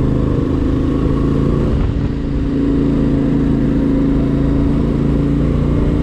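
CFMOTO 450MT's parallel-twin engine running under way at a steady pace, easing off briefly about two seconds in and then pulling steadily again.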